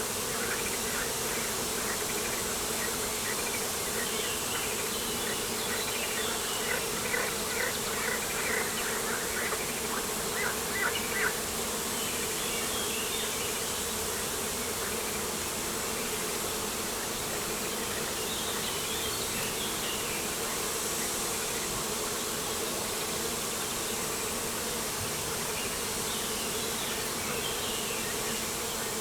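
Steady buzzing of insects, with short bird chirps scattered over it, more of them about a third of the way in and again later.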